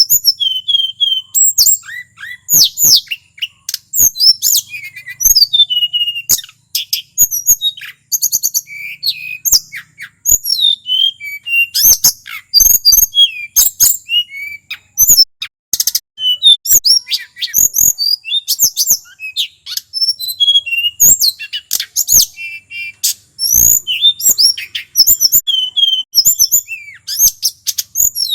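Male tledekan gunung (mountain blue flycatcher) singing a loud, rapid, varied song of whistled notes, quick up-and-down glides and trills, phrase after phrase with only brief gaps, in full 'gacor' song.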